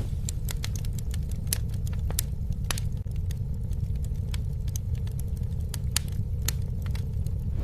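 Campfire burning: a steady low rumble of flames with irregular sharp crackles and pops.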